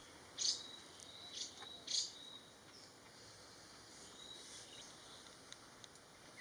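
Forest ambience: a few short, high-pitched bird chirps in the first two seconds and once more around four seconds in, over a faint steady high insect whine.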